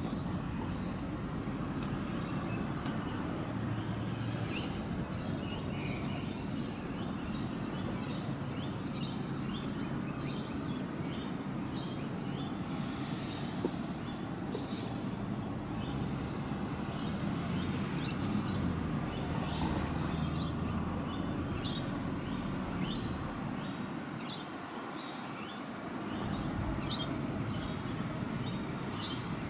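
Birds chirping over and over, with one louder sweeping call about thirteen seconds in, above a steady low rumble.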